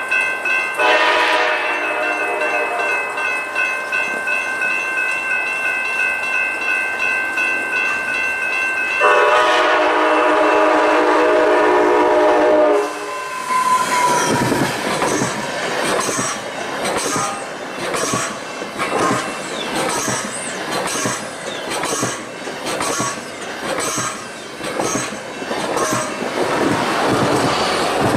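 Train horn sounding a long chord, then a second, louder blast that cuts off sharply after about three and a half seconds. The train then passes close by with a steady rhythmic clatter of wheels over the rail joints.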